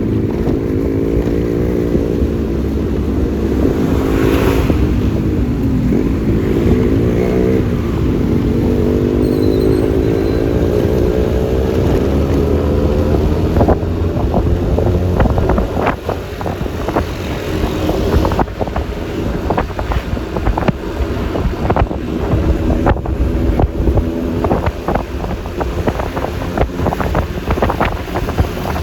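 Yamaha Lexi LX 155 scooter's 155 cc single-cylinder engine running under way, its pitch dipping and climbing again several seconds in as the throttle is eased and reopened, over a steady rumble of wind on the microphone. In the second half, many short crackles and knocks.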